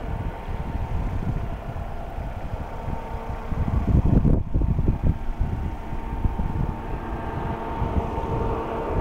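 Wind buffeting the microphone in irregular gusts, strongest about four seconds in, over a steady mechanical hum with a few fixed tones.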